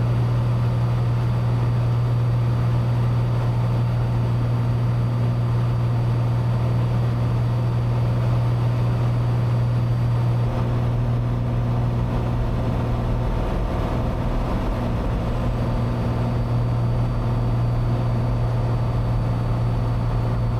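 Cessna 182's engine and propeller running at a steady drone in flight, with a strong low hum that holds constant throughout.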